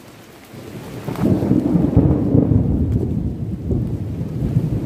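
Heavy rain falling, with a loud low rumble that comes in about a second in and carries on.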